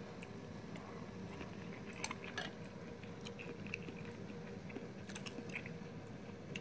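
A person chewing a mouthful of shrimp close to the microphone: soft, faint mouth sounds with scattered small wet clicks, a couple of them louder about two seconds in.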